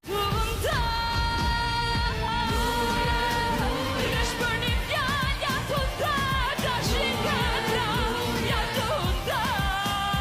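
Pop song with a singing voice holding long, wavering notes over a steady beat, starting suddenly.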